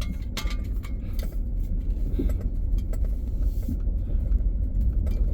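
Steady low rumble of a running truck, with scattered short clicks and knocks over it.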